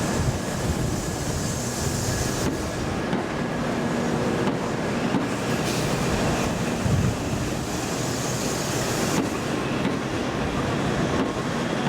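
Shinkansen N700A train rolling past, a steady rumble of wheels on rail.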